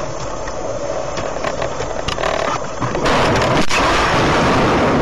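Car road and engine noise heard from a dashboard camera, turning louder and rougher about three seconds in, with one sharp knock shortly after.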